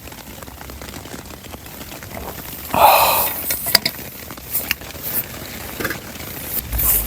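Items being handled at a campsite: a short ringing clank about three seconds in, then scattered clicks and knocks, over a faint steady hiss.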